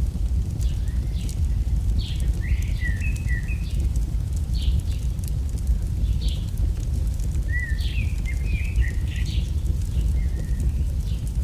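Campfire crackling, with scattered sharp pops over a steady low rumble, while small birds chirp and twitter in two short bouts, about two seconds in and again near eight seconds.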